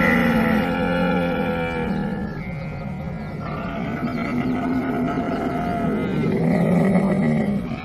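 Camel calling: two long, pitched calls, the second starting about two and a half seconds in and stopping just before the end.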